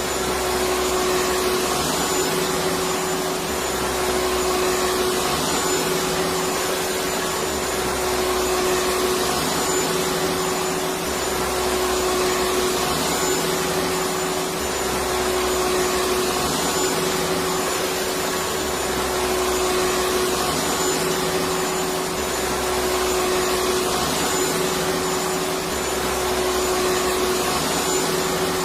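Electric vacuum cleaner running continuously: a steady rushing noise with a constant hum, its low end gently swelling and fading every couple of seconds.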